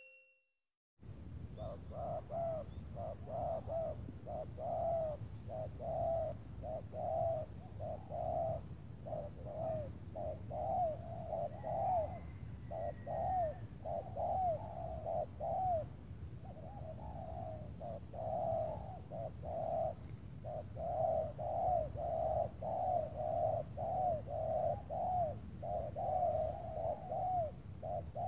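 Spotted doves cooing, starting about a second in and going on in repeated series of short, low, rounded coos with brief pauses between phrases.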